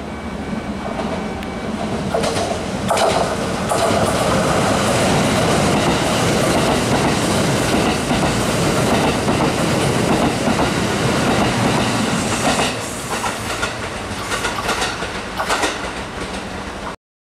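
Kintetsu 50000-series Shimakaze electric limited express running through the station: a steady rumble of wheels on rail that grows loud about three seconds in, then a run of sharp clicks from the wheels over the rail joints as the last cars pass. The sound cuts off suddenly near the end.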